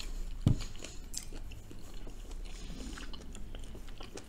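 Close-miked chewing of a mouthful of smothered cabbage and rice, with small wet clicks from the mouth; the cabbage has tough pieces of skin that take a lot of chewing. A single low thump about half a second in.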